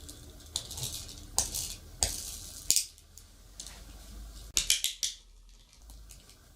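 Small hard objects clicking and scraping as they are handled: a few separate clicks and scrapes, then four quick clicks in a row near the end.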